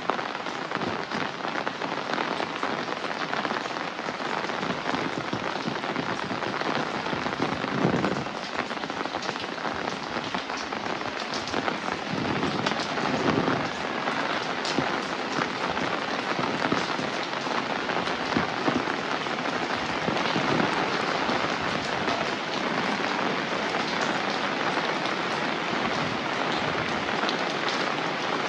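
Steady rain falling, with louder individual drops and splashes here and there.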